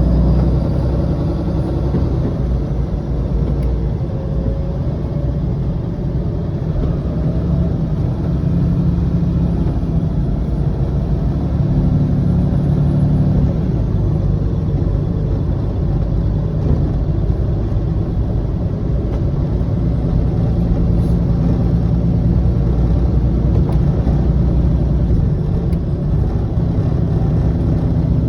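Coach bus diesel engine running at low speed, heard from the driver's seat as a steady low rumble whose engine note swells and eases slightly.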